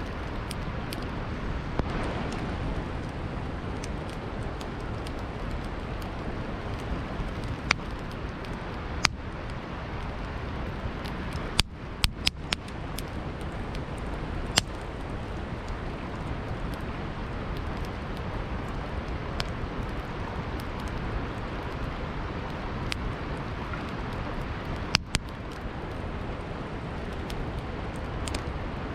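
Campfire crackling with scattered sharp pops, a few clustered together about twelve seconds in and again near the end, over the steady rush of a river.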